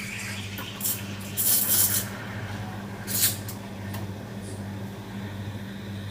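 Coffee machine giving short bursts of hissing, about a second, half a second later and three seconds in, over a steady low hum.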